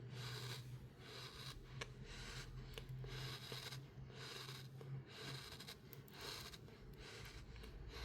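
Crunchy sand crumbling and grating in a run of scratchy strokes, roughly one a second, over a steady low hum.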